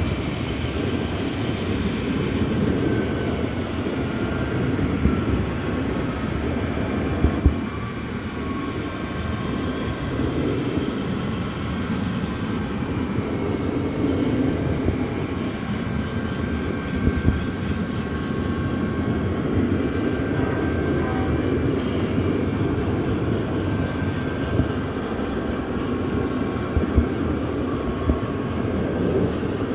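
Steady rumble of a moving train, with a few sharp knocks and faint thin high tones over it.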